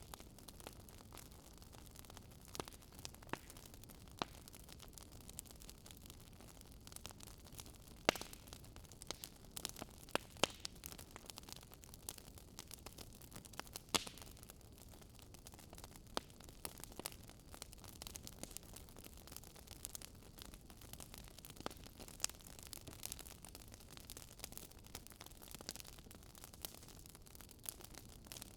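Wood fire burning in a fireplace: a steady low hiss of the flames with frequent sharp crackles and pops of burning wood, a few louder pops standing out.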